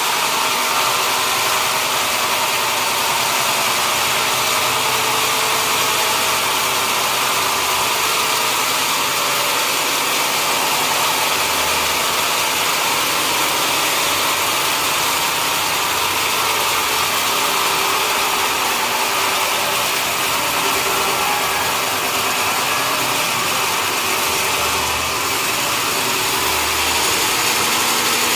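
Sawmill machinery running with a steady, unbroken engine-like noise.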